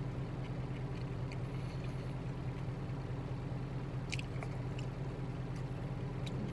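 Chewing and biting with small clicks of eating, the clearest about four seconds in and near the end, over a steady low engine hum in a truck cab.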